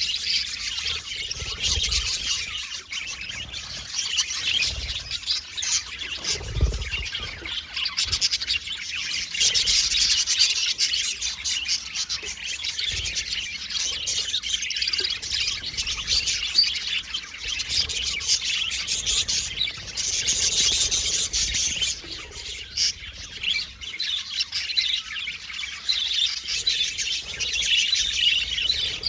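A flock of budgerigars chattering and chirping without pause, a dense mix of warbles and short sharp calls, now and then a squawk.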